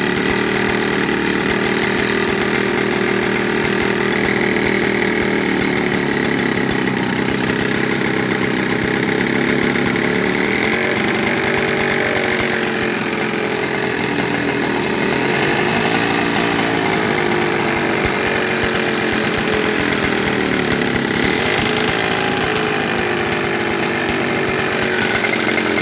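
Two-stroke Peugeot 103 moped engines fitted to a bicycle, running steadily with a buzzing, chainsaw-like note; the engine pitch rises and falls from about ten seconds in.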